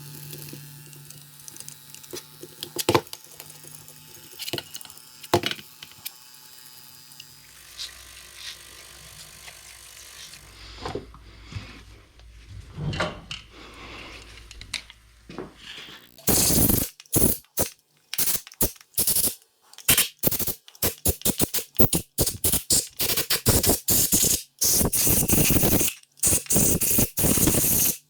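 Carburettor parts being cleaned with a pressurised nozzle: light clicks of small parts being handled, then from about halfway a run of loud, short hissing blasts, one after another.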